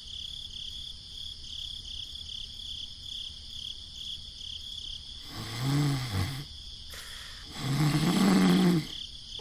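Cattle lowing twice, two low drawn-out moos, over steady pulsing insect chirping.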